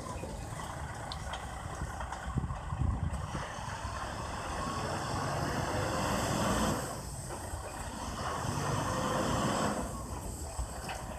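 Steady rumble of a heavy vehicle, likely a truck engine running, mixed with wind noise.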